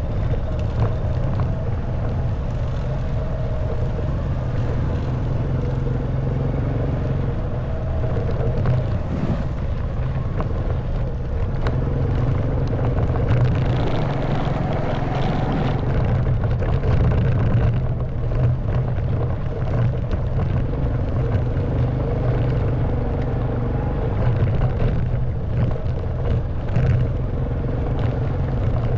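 Honda Wave 110cc single-cylinder four-stroke motorbike engine running under way, its note rising and busier for a few seconds near the middle, with small rattles and knocks from the bike riding over a rough forest track.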